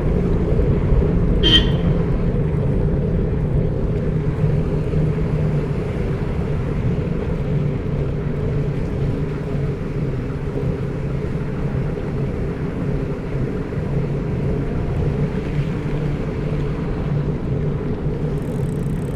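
Steady low rumble of a running motor, with one short high chirp about a second and a half in.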